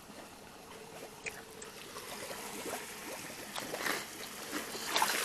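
Shallow river water trickling, with small splashes that grow louder toward the end.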